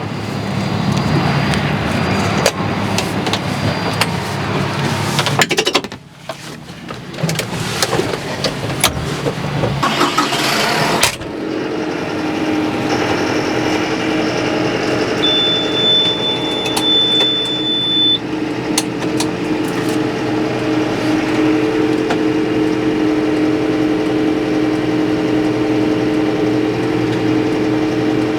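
A vehicle engine running: rough and uneven for the first ten seconds or so, then settling into a steady hum. A thin high beep sounds for about three seconds midway.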